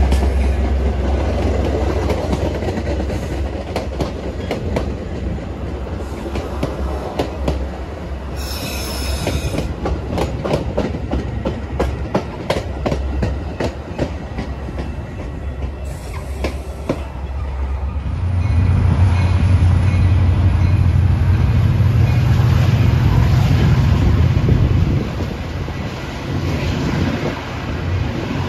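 Metra commuter train of bilevel cars passing close by, its wheels clicking rapidly over the rail joints. After about 18 seconds this gives way to a louder, steady low rumble.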